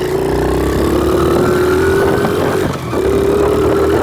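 Small pit bike engine running under throttle, its pitch climbing slowly. About two-thirds of the way through it dips briefly, then picks back up.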